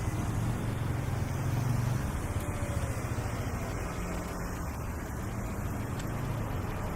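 Street traffic noise with a motor vehicle's engine running steadily close by, a low hum that stays even throughout.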